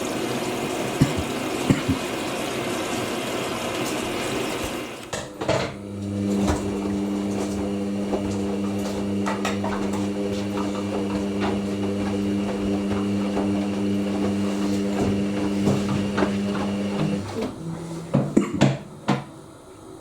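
Hoover NeXtra front-loading washing machine at the start of its first rinse: water rushes in for about five seconds, then stops with a click. A steady mechanical hum with scattered clicks follows, cutting out a few seconds before the end, and then come a few sharp knocks.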